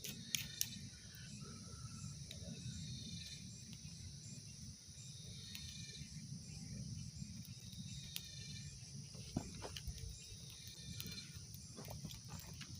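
Insects chirping steadily, with a few brief sharp clicks about half a second in and again around eight to nine seconds in.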